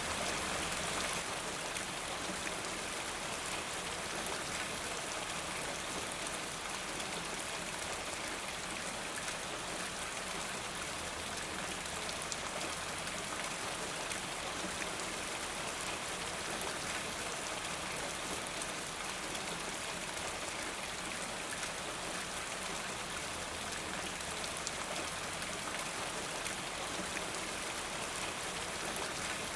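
Steady rain falling, with individual drops pattering.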